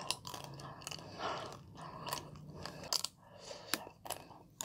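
Close-miked biting and chewing of a chocolate-and-almond-coated ice cream bar, with several sharp crunches from the hard chocolate shell between softer wet chewing.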